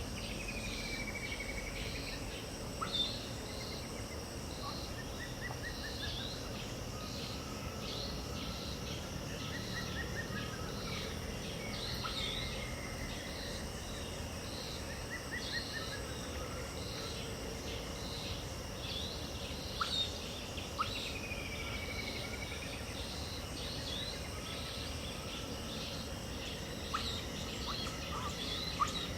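Dawn chorus of many birds calling together over a steady insect hum: constant short chirps, a few drawn-out falling whistles, and short trilled phrases.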